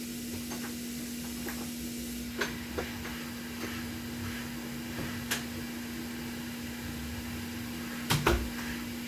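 Heat gun blowing hot air steadily with a constant low hum, softening the solder on a PS5 HDMI port. A few light clicks and knocks of tools on the board, the loudest pair near the end.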